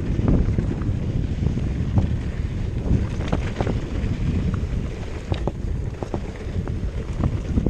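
Wind buffeting the microphone in a continuous low rumble, with frequent short clicks and knocks throughout.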